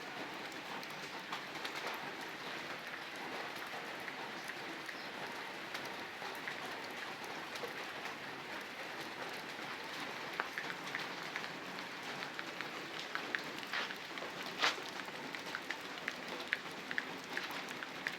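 Steady rain falling, with separate drops tapping more sharply and often from about halfway through.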